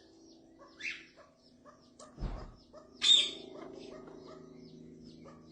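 Pet parrot giving a few short, high chirps, then a short harsh squawk about three seconds in, with a soft low thump just before it.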